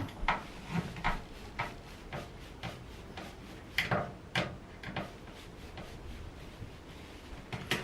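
Screwdriver backing out a screw that holds the washing machine drain pump, making a string of light ticks about two a second, with a couple of sharper clicks about four seconds in.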